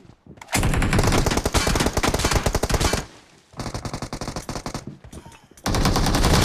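Rapid automatic gunfire from a video-game shooter: a loud sustained burst starting about half a second in and lasting about two and a half seconds, quieter fire for the next couple of seconds, then another loud burst near the end.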